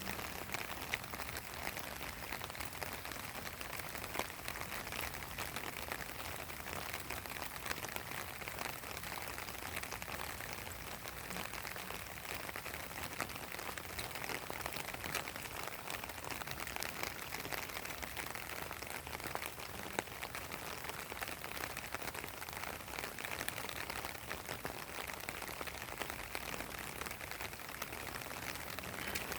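Steady rain falling on a pond's surface: a constant hiss thick with small, separate drop ticks.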